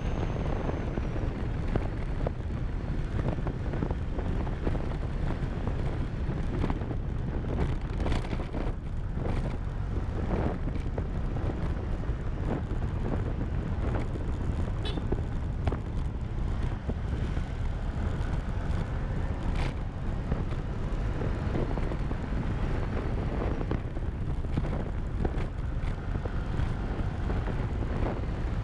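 Motorcycle riding along, its engine running under heavy wind rumble on the action camera's microphone, with occasional short knocks from bumps in the road.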